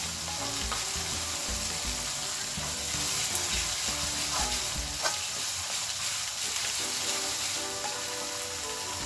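Ground spice paste sizzling in hot oil in a wok while a metal spatula stirs it, with a few light scrapes of the spatula against the pan, one stronger about five seconds in.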